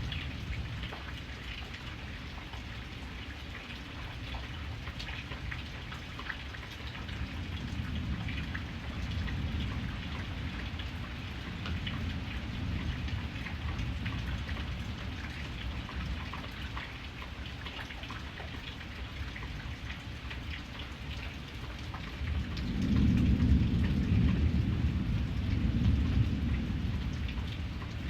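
Steady rain with a fine patter of drops, under a low rumble of thunder that rolls in and swells loudly near the end.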